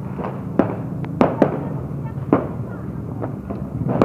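Fireworks exploding: a series of sharp bangs at uneven intervals, the loudest a little past one second in and again in the middle.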